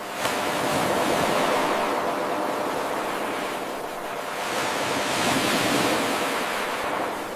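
Ocean waves washing onto a shore, the surf swelling and receding twice. A moment in, the level jumps up abruptly where the 8-second looped recording restarts.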